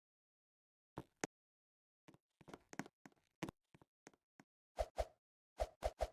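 A series of short, irregular knocks and taps with dead silence between them, the loudest coming in quick pairs and triples near the end.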